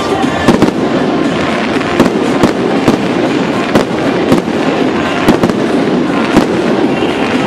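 Fireworks display: aerial shells bursting in quick, uneven succession, about a dozen sharp bangs over a dense, continuous din.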